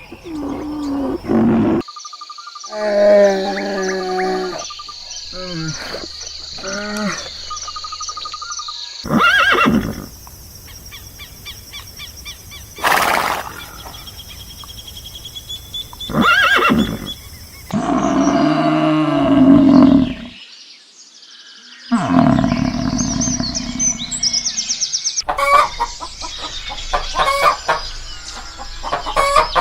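A run of animal calls and noises from separate clips cut together, the sound changing abruptly every few seconds.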